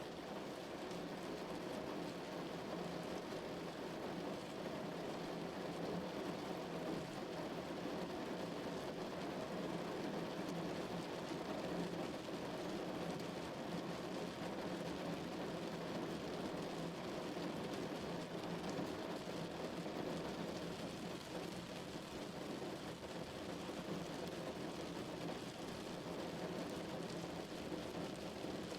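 Steady heavy rain falling, an even unbroken hiss with no separate drops or claps standing out.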